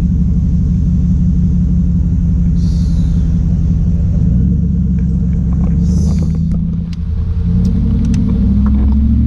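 Car engine running close by, a loud, steady low rumble that shifts slightly upward in pitch after about seven seconds. Two short hisses sound about three seconds apart.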